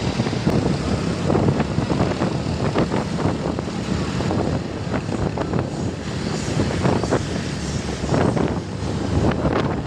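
Heavy truck engine and road noise as loaded timber trucks drive by, with wind buffeting the microphone.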